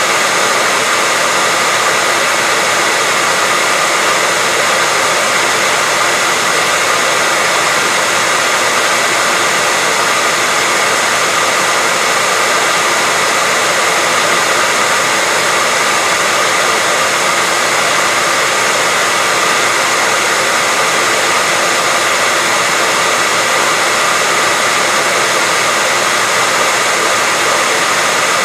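Hair dryer running steadily on one setting: a constant airy rush with a faint steady whine from the fan motor, used as white noise to lull a baby to sleep.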